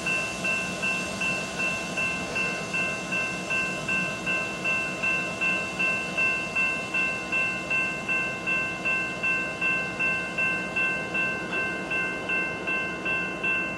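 Railroad bell ringing steadily, struck about three times a second with a metallic ring that carries between strikes.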